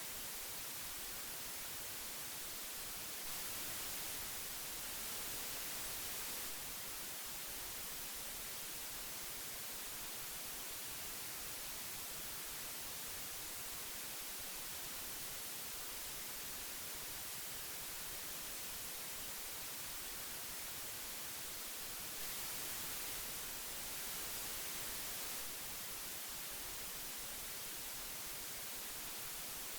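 Steady hiss of old magnetic tape, an even hiss weighted toward the treble, swelling slightly louder twice for a few seconds.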